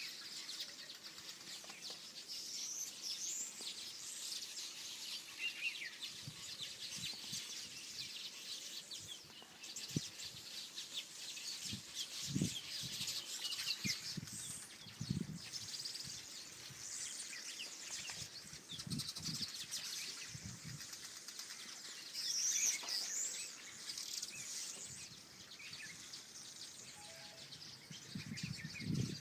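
A mixed chorus of wild songbirds chirping and whistling, many short calls and quick rising and falling notes overlapping, with low muffled thumps now and then.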